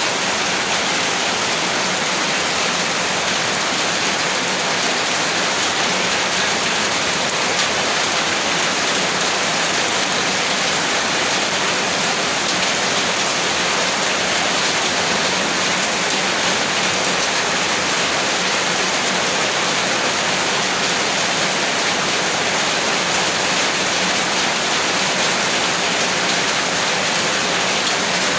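Heavy rain falling in a steady, dense hiss, with no breaks and no thunder.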